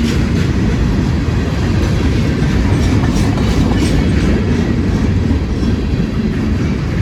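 Freight train cars rolling past at close range: a steady heavy rumble with wheels clicking over rail joints now and then.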